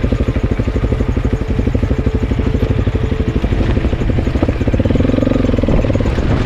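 Single-cylinder trail motorcycle engine running at low speed, a steady, rhythmic pulsing as the bike makes its way over slippery mud.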